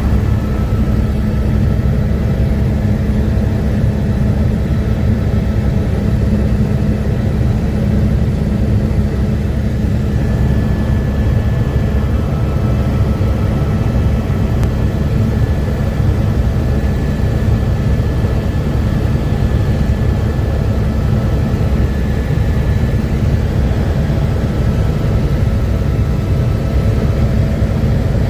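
Helicopter in flight: steady, loud rotor and engine noise with a faint, steady high whine above it.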